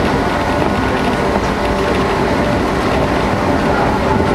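JR 115 series electric train running steadily at speed, heard inside the carriage: a constant rumble of wheels on rail with a steady whine held over it.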